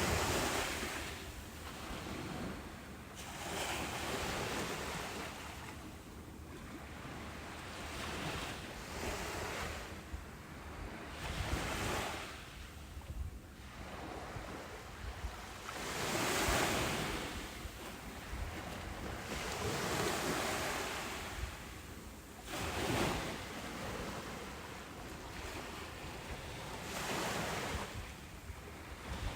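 Ocean surf breaking on a beach. The wash of the waves swells and fades, with a new surge every three or four seconds.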